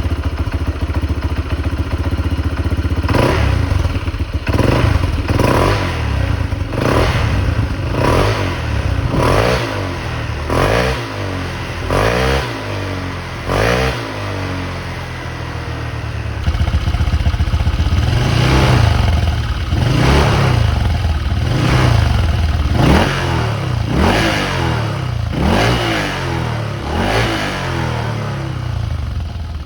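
Single-cylinder engine of a Honda PCX scooter bored up to 175 cc, with a Burial Nexus R.R.S exhaust, revved in repeated throttle blips. The pitch rises and falls roughly once a second. The sound changes about halfway through, and a second series of revs follows.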